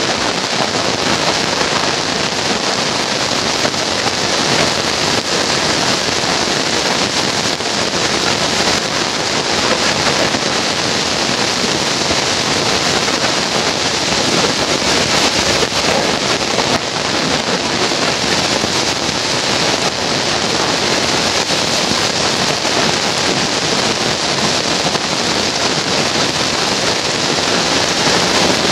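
Heavy tropical downpour pouring steadily onto a paved street and the surrounding roofs and trees: a dense, even hiss of rain.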